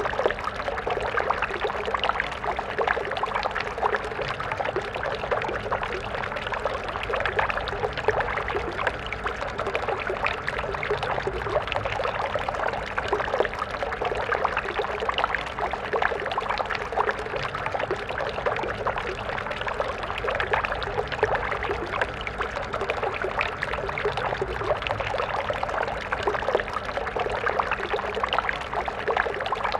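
Water stream flowing, a steady dense splashing and gurgling rush without a break.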